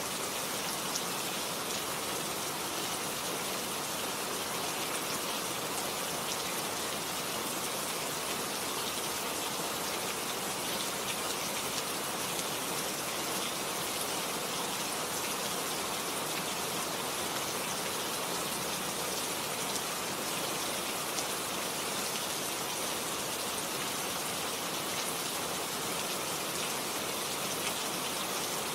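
Steady rainfall: an even hiss of rain with fine scattered drop patter, unchanging throughout.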